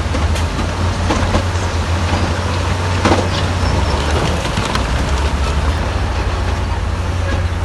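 Heavy diesel construction machinery running steadily under load, with scattered metallic clanks and knocks, the sharpest about three seconds in.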